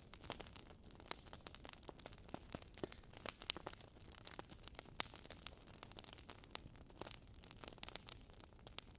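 Wood fire crackling in a fireplace: a steady stream of irregular sharp pops and snaps over a faint hiss.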